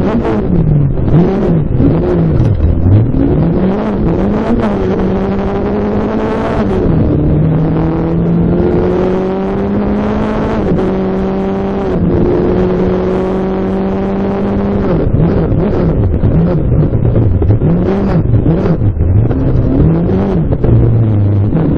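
Rally car engine heard from inside the cabin, revving hard with frequent gear changes. The pitch rises and falls quickly at the start and again near the end. In the middle it makes a few long, slowly climbing pulls, each cut off by an upshift.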